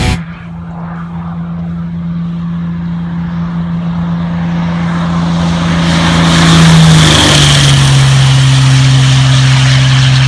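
Racing truck engine running at speed: a steady engine note that grows louder over several seconds, then drops to a lower pitch about seven seconds in and holds there.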